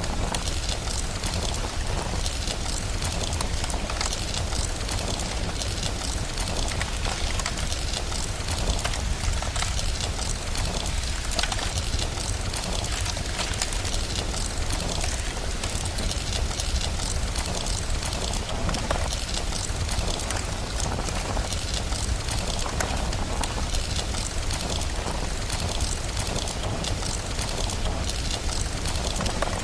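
Steady rain mixed with a crackling fire, thick hiss dotted with small pops over a constant low rumble.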